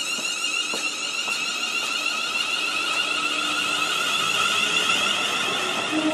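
An approaching train: a steady high-pitched whine and hiss, made of several held tones, growing slowly louder. The train's horn begins right at the end.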